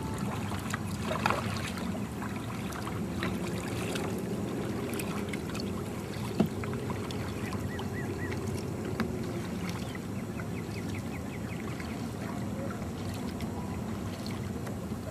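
Kayak on a lake: steady water noise around the hull and paddle, with a single sharp knock about six seconds in and a faint, fast run of high repeated notes near the end.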